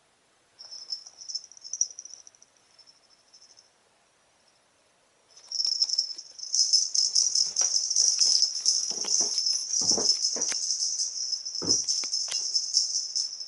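A high-pitched jingling rattle, shaken in short bursts about a second in and then continuously from about five seconds in, with a few soft knocks.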